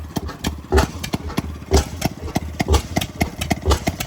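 Antique stationary engine running slowly: a heavy beat about once a second, with lighter clicks between.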